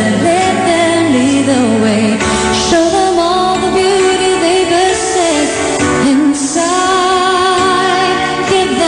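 Live pop music: a female voice singing a wavering melodic line over band accompaniment, with a change in the backing about two seconds in.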